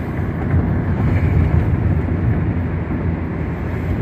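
Steady road and tyre noise inside a car's cabin at freeway speed, a dense low rumble with no breaks.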